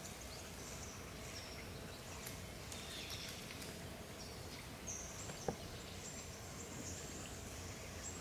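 Short, high bird chirps scattered over a steady outdoor hiss, with one sharp click about five and a half seconds in.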